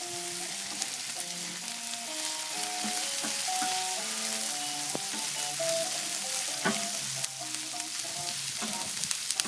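Green pepper and carrot sizzling and frying in a big skillet pan on a barbecue while being stirred, with a few sharp knocks of the utensil against the pan.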